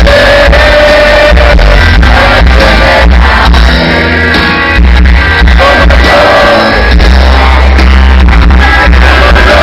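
A rock band playing live and loud, with a singer over heavy bass and regular drum hits. The recording runs near full scale and sounds saturated.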